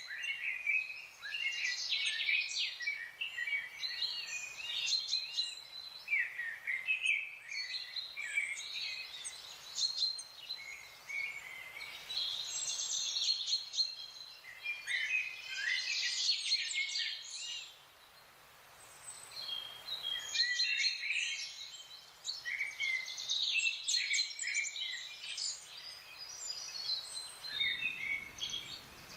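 A chorus of several small songbirds singing and chirping over one another: rapid high chirps, trills and short whistled glides, with a brief lull about two-thirds of the way through.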